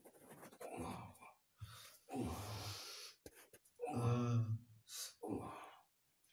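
A person groaning and gasping, about five separate breathy, voiced moans with short pauses between them.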